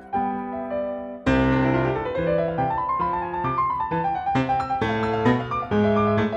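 Background piano music: a gentle melody of single struck notes over low bass notes, with a fresh loud phrase starting about a second in.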